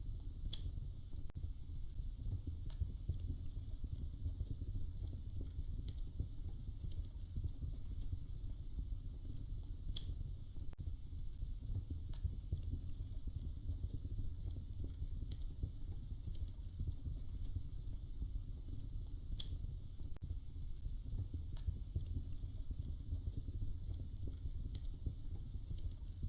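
Wood fire crackling in a fireplace: irregular sharp pops and snaps, roughly one every second or two, over a steady low rumble.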